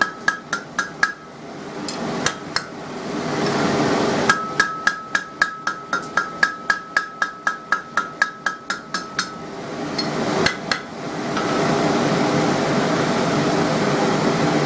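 Hand hammer striking hot steel on an anvil, each blow with a clear ringing anvil tone. A few blows, then a pause, then a quick run of about twenty at roughly four a second, then two last blows. A steady rushing noise carries on between the blows and after them.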